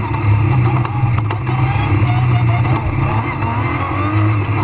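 Rally car engine running steadily under load, heard from inside the cabin, with a few sharp knocks a little over a second in.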